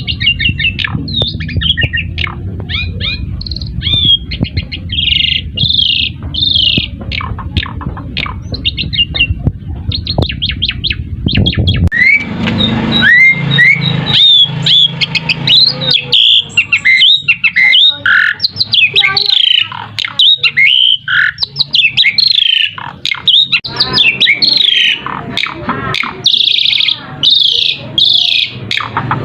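Asian pied starling (jalak suren) singing a fast, varied stream of whistles, chirps and squeaky notes. A low rumble lies under the first twelve seconds and cuts off suddenly.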